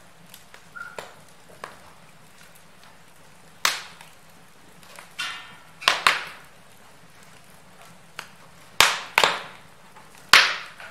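Wood fire in a fireplace crackling: scattered sharp pops and snaps, several loud ones in the second half, with a brief hiss about five seconds in.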